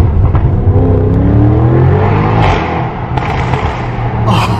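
Audi RS6 C7's twin-turbo V8, breathing through an aftermarket Milltek exhaust, accelerating hard at full throttle, heard from inside the cabin. The revs climb over the first two seconds, ease off briefly about three seconds in, then pick up again.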